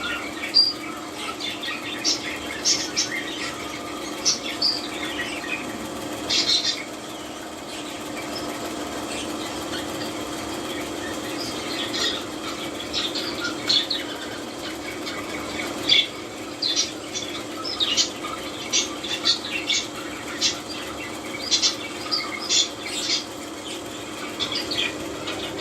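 English budgerigar chicks giving short, high squeaky calls in irregular clusters, with a pause of a few seconds partway through. A steady low hum runs underneath.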